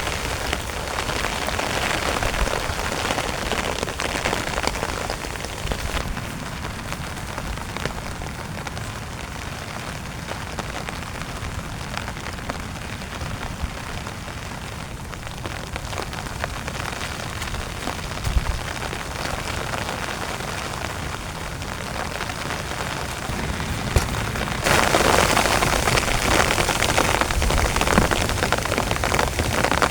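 Heavy rain falling steadily on a tent, with scattered louder drops. It turns suddenly louder and heavier about 25 seconds in.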